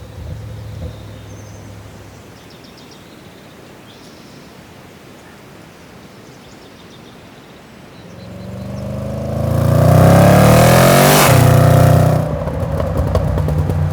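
A motor-driven machine approaching and passing close by: its whine builds from about eight seconds in, is loudest a couple of seconds later, and its pitch drops sharply as it goes past, then eases off.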